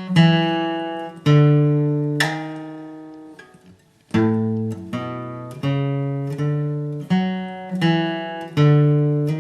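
Acoustic guitar flatpicked slowly, one single note at a time, about ten notes each left to ring out, with a short gap about four seconds in.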